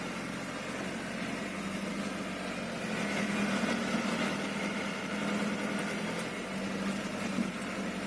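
Hino Dutro truck's diesel engine running steadily at low revs, a constant hum.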